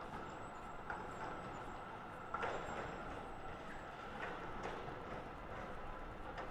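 Melbourne tram rolling through a tight street curve, its wheels knocking irregularly over the track joints, with a faint thin high squeal in the first half.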